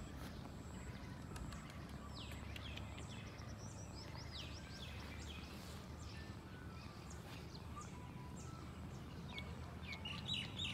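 Faint outdoor ambience: a steady low rumble with scattered bird chirps. Near the end a bird starts calling in a quick run of repeated chirps, about three a second.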